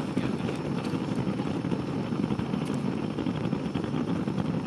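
Wood campfire burning: a steady low rumble with faint scattered crackles.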